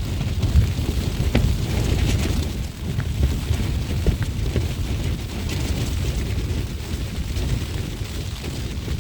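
Gale-force wind buffeting a Vango Starav tent, with a steady low rumble of wind on the microphone, gusts rising and falling, and scattered crackles and rustles of the flysheet shaking.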